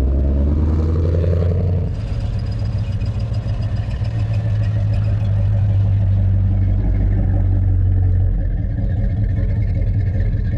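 Classic car's engine running at low speed as the car rolls in, a steady deep note whose pitch shifts a couple of times.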